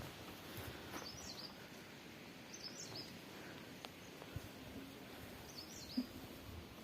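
Quiet outdoor background with a small bird giving three short, twittering high chirps spread across a few seconds, and a few faint taps.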